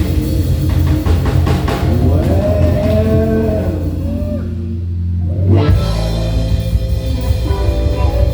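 Live band playing with bass, drums, guitar and keys. About four and a half seconds in, the band drops out to a held bass note, then comes back in together with a hit about a second later.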